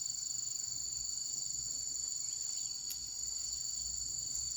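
Crickets chirring: a continuous, steady high-pitched trill.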